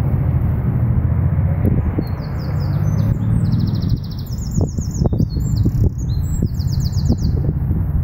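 Songbirds chirping and trilling in short, quickly repeated phrases, starting about two seconds in, over a steady low rumble. A few dull knocks come near the middle.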